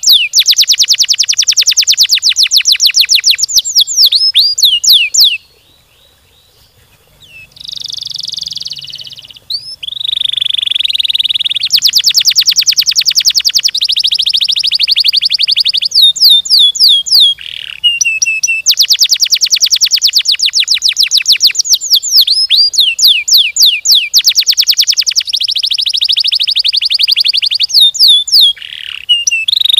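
Domestic canary singing long, fast trills and rolls of rapidly repeated high notes, with quick rising and falling sweeps between phrases. It breaks off for about two seconds roughly a fifth of the way through, then carries on.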